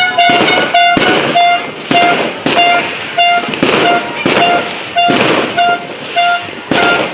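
Fireworks banging in quick succession, about two a second, while a horn sounds rapid short toots of one pitch, about three a second.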